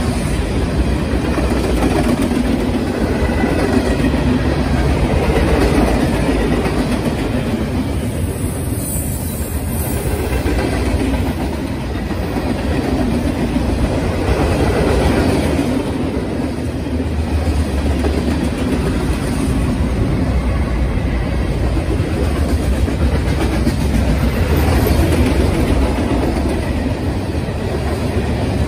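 Freight cars of a Norfolk Southern train rolling past: tank cars, covered hoppers, boxcars and flatcars. Their steel wheels make a steady rolling noise on the rails.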